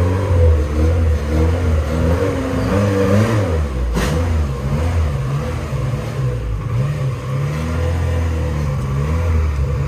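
A car engine running, its revs rising and falling unevenly, with a sharp click about four seconds in.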